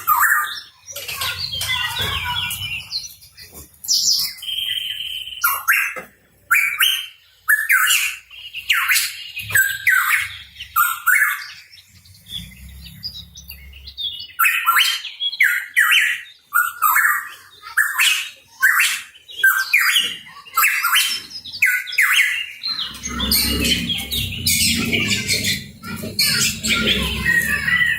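A pitohui calling energetically: a quick run of short, harsh chirping and squawking notes, repeated in bursts with brief gaps. A low rumble lies under the calls in places, strongest near the end.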